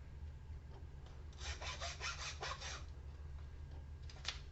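A hand tool rasping at the copper windings of a transformer ballast, in a quick run of six or seven strokes about five a second, with a single click near the end.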